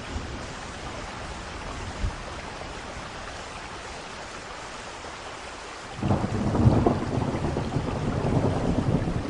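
Steady rain falling. About six seconds in, a thunderclap breaks in suddenly and rolls on as a loud low rumble over the rain.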